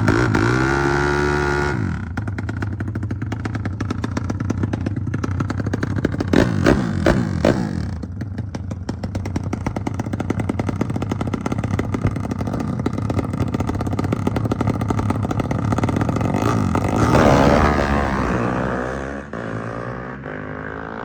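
Motorcycle engine revving: a high rev drops away about two seconds in, quick throttle blips follow a few seconds later, and another loud rev rises near the end before fading.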